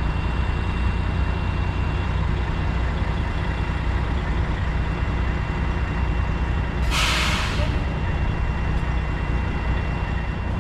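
Freightliner Classic XL semi truck's diesel engine running steadily, with one short, sharp burst of air hiss about seven seconds in: the air brakes being set as the truck stops at the dock.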